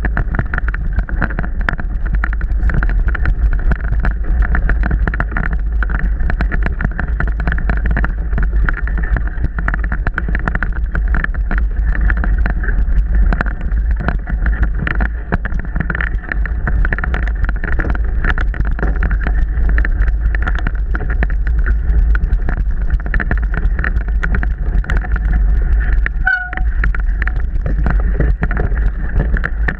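Onboard sound of a mountain bike being ridden over rough trail: steady wind and rumble on the camera's microphone, with constant clicks and rattles from the bike. There is a brief high squeak about 26 seconds in.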